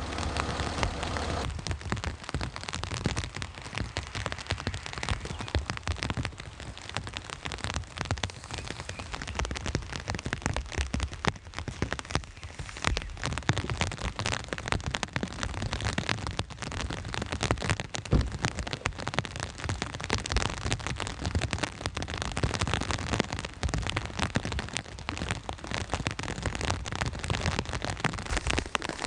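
Rain falling steadily, with many individual drops ticking sharply on a hard surface. A steady hum with even tones stops about a second and a half in.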